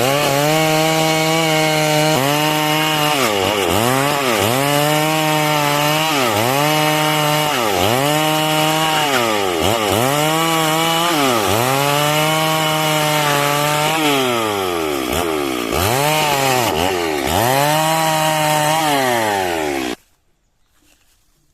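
Stihl MS 382 two-stroke chainsaw cutting lengthwise through a log, its revs dipping and recovering about every second and a half as the chain loads in the wood. The engine cuts off suddenly near the end.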